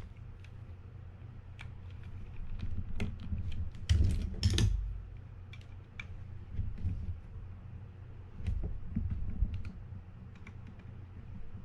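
Scattered small clicks and taps of a screwdriver and small metal reel parts being handled while a spinning reel's rotor screw is undone, with a louder cluster of clicks about four seconds in.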